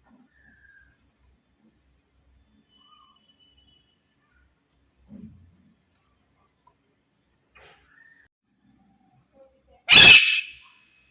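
A pet parrot gives one loud, harsh squawk about ten seconds in, over a steady, high-pitched pulsing trill and a few faint chirps.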